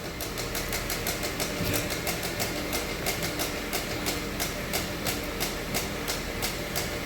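2009 Honda CR-V running cold with a fast, regular ticking clatter from its power steering pump while the steering wheel is turned. The pump is failing, and the noise goes away once the engine warms.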